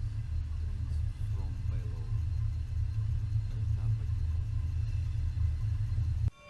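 Deep, steady low rumble that cuts off abruptly near the end.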